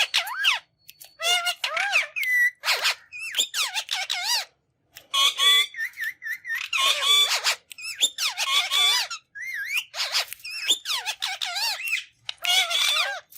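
Green ringneck parrot (rose-ringed parakeet) calling in quick runs of short calls that sweep up and down in pitch, with brief pauses between the runs.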